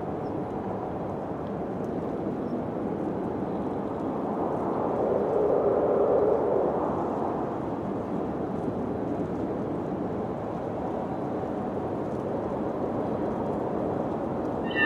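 Wind blowing in a steady low rush, swelling louder for a couple of seconds around five seconds in.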